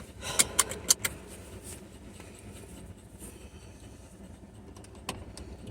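A quick cluster of sharp clicks and clatters in the first second and one more click near the end, over a low steady rumble: handling noise at a pickup truck.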